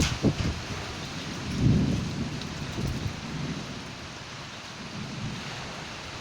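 Thunderstorm: steady heavy rain with low rolls of thunder, the strongest swelling about a second and a half in.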